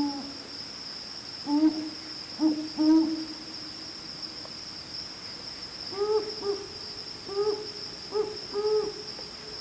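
Omani owl pair duetting in soft, low hoots: the male's deeper hoots in the first three seconds or so, then the female's slightly higher-pitched hoots from about six seconds in. A steady high insect trill runs behind them.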